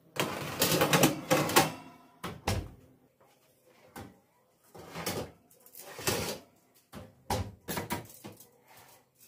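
Household objects being handled: a dense rustling scrape over the first two seconds, a low thud at about two and a half seconds, then a run of short knocks and clatters.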